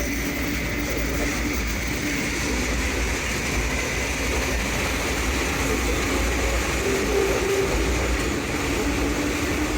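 Moving freight train heard from aboard a car: a steady rumbling ride noise, heaviest in the low end, with faint wavering tones over it.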